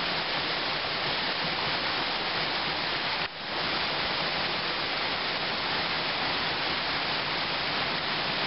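Steady rush of a waterfall. About three seconds in, the sound briefly drops away and swells back.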